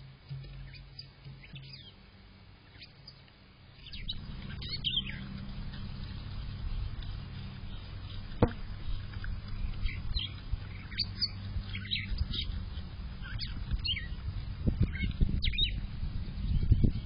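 Small birds chirping: many short, high chirps from about four seconds in, over a low steady hum.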